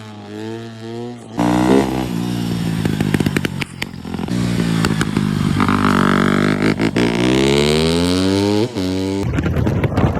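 Off-road vehicle engines revving, their pitch rising and falling, with scattered rattling clicks. The sound changes abruptly several times, and near the end one engine climbs steadily in pitch before it cuts off.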